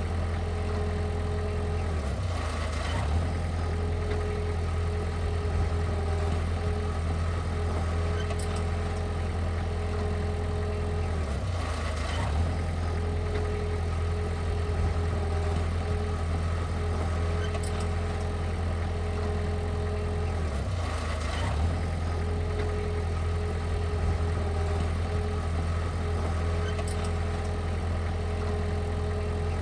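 Heavy diesel engine running steadily at a constant speed, its pitch dipping briefly three times, about every nine seconds.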